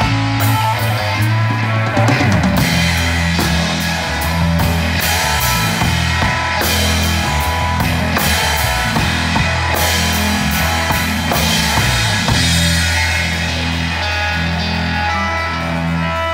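Blues band playing live: drum kit with regular cymbal and bass-drum strokes, over electric guitar and a sustained bass line.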